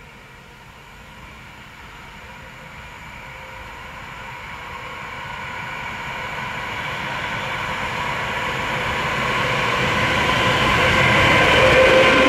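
SNCF Class BB 36000 electric locomotive approaching with a freight train of tank wagons, growing steadily louder. A steady whine in several high tones sits over the rumble of the wheels on the rails.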